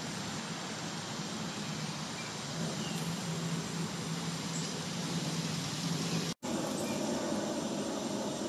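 Steady outdoor background rumble like distant road traffic, with a low hum, and a few faint bird chirps. The sound cuts out completely for an instant a little past six seconds in.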